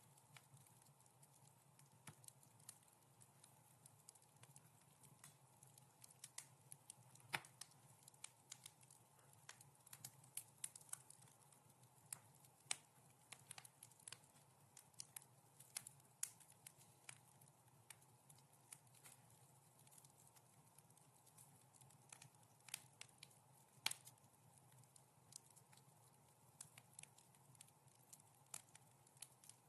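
Wood fire in a fireplace crackling softly: irregular sharp pops and snaps, a few louder than the rest, over a faint steady low hum.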